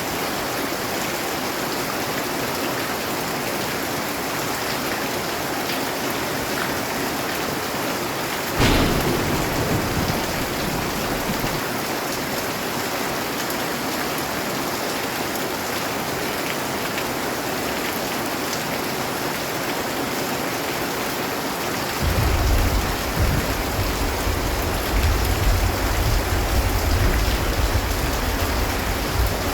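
Steady heavy rainfall with thunder: a sharp crack about nine seconds in that fades into a short low rumble, then a longer low rolling rumble over the last several seconds.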